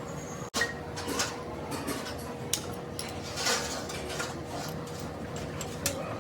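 Scattered metallic clinks and light clatter of metal parts and hand tools being handled, over a faint steady hum.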